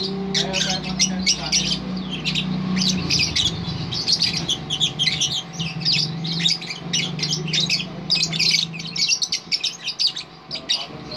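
Lovebird chattering in one long unbroken run of rapid, short, high chirps and squawks.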